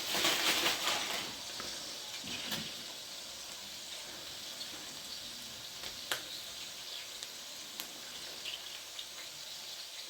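Food sizzling in hot oil in a pan, louder for about the first second and then a steady sizzle, with a few light clicks.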